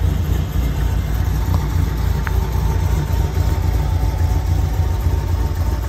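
Big-cam, 870 rwhp Chevrolet Camaro ZL1's supercharged 6.2-litre V8 idling. The idle pulses unevenly, the lope of its aggressive camshaft.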